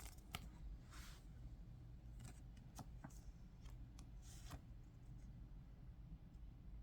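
Faint handling of trading cards: a few light ticks and two brief sliding, rubbing sounds of card and plastic against each other.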